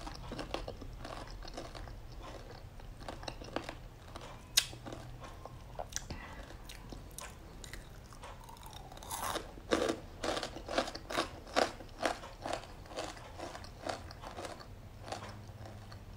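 Chewing crispy flour-dusted fried coral mushroom. Soft crunches at first, then after a fresh bite about nine seconds in, a run of louder crisp crunches about two a second.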